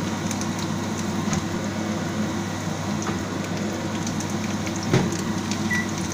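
Oyster mushrooms and garlic sizzling and crackling in hot olive oil in a frying pan, over a steady low hum, with a single knock about five seconds in.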